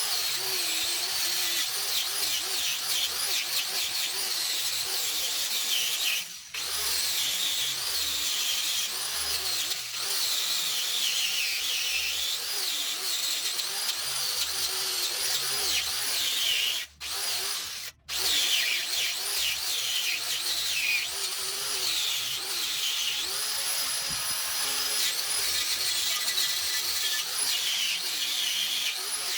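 A power tool running almost continuously with a high, wavering whine over a harsh scratching noise, stopping briefly a few times.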